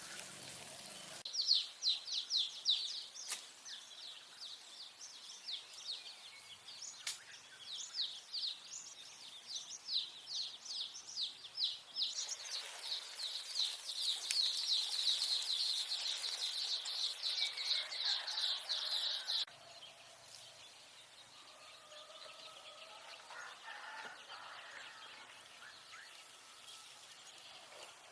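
A bird chirping in a rapid run of high, short notes, several a second, that grows into a near-continuous trill before stopping abruptly about two-thirds through. Fainter, lower bird calls follow.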